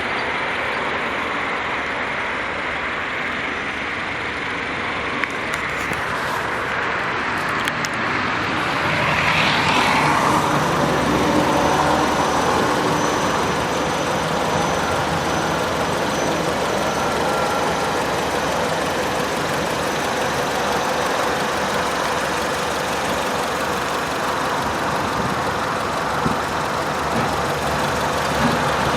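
Car engine idling steadily. About nine seconds in, another vehicle passes and the sound swells for a few seconds.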